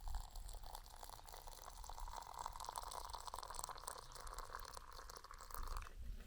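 Liquid being poured into a container in a steady stream for about six seconds, then stopping abruptly.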